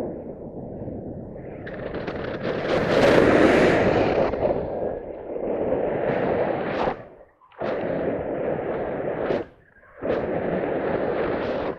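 Heavy wind buffeting the microphone, loudest a few seconds in, then in stretches that cut off abruptly several times.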